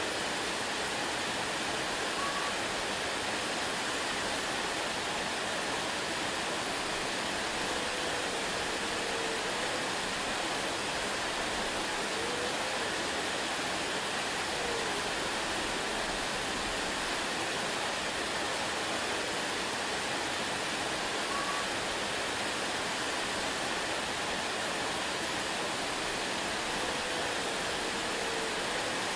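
Waterfall rushing steadily, an even unbroken roar of falling water, with a few faint short chirps now and then.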